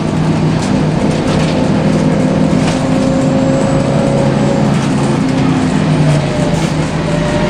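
Scania L94UB CNG bus heard from inside the cabin while under way: the gas engine running steadily with a thin whine over it that rises slightly midway.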